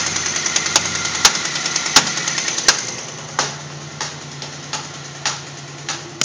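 2000 Pontiac Grand Prix GT's 3800 Series II V6 running with a loud, sharp pop about every two-thirds of a second over a rapid ticking, and the engine gets quieter about three seconds in. The pops come only with the number 6 spark plug connected, which the owner takes for an ignition problem.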